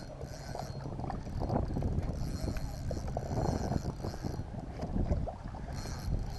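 Water sloshing and splashing around a kayak with wind rumbling on the microphone, uneven and fluctuating, while a hooked smallmouth bass is played in close to the boat.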